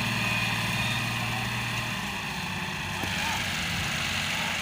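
Massey Ferguson 385 tractor's four-cylinder diesel engine running steadily; its note shifts lower about two seconds in as it settles toward idle.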